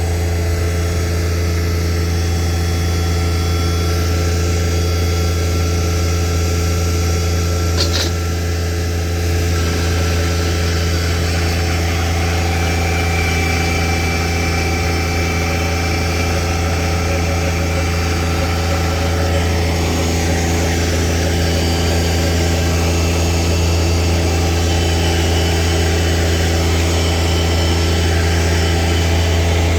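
An engine running steadily at one constant speed, with a deep, even hum that never changes pitch, and one brief click about eight seconds in.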